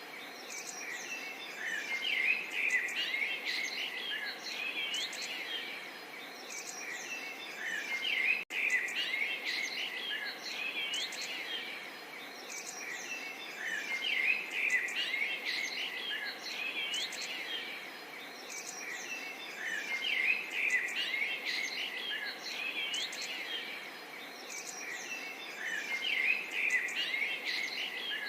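Dense chorus of several small songbirds chirping and trilling over one another, swelling in regular waves about every six seconds. There is a momentary break in the sound about eight seconds in.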